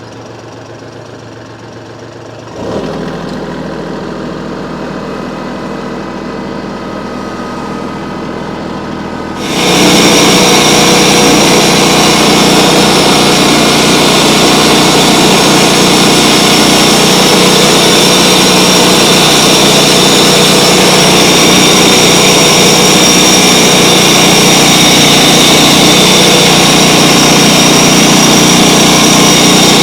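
A sawmill's gasoline engine starts and runs steadily about three seconds in. Nearly ten seconds in it jumps to a much louder, steady full-speed run.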